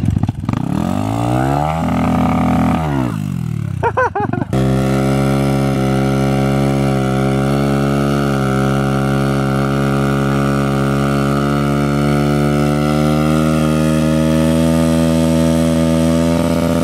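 Pit bike engines running at speed, their pitches rising and falling for the first few seconds. About four and a half seconds in the sound changes abruptly to one engine held at a steady high rev, throttle pegged.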